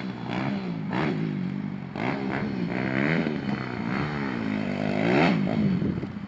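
190cc dirt bike engine being ridden and revved, its pitch rising and falling several times as the throttle opens and closes. It is loudest about five seconds in, then drops back near the end.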